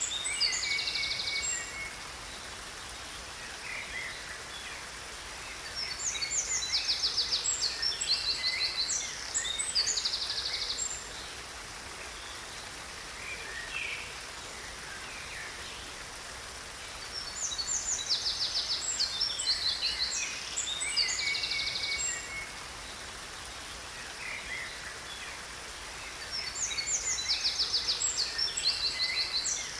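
A songbird singing three bouts of quick chirps and trills a few seconds long, spaced about ten seconds apart, over a steady rush of falling water.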